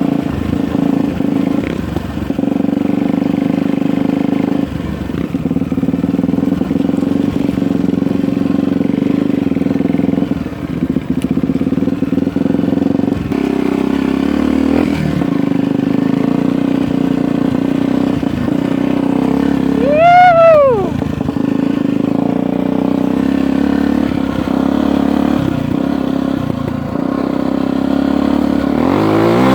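Dirt bike engine running steadily at a low, even pitch on a trail ride. About two-thirds through there is a quick rev up and back down, the loudest moment. Near the end it revs up again as the bike picks up speed.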